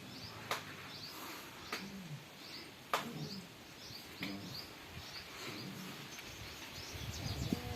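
Small birds chirping repeatedly over outdoor background noise, with four sharp clicks in the first half, the loudest about three seconds in.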